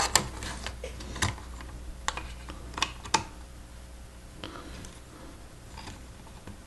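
Plastic Lego Technic pieces clicking and tapping as they are handled and pressed together: irregular sharp clicks, several in the first three seconds or so, fewer toward the end.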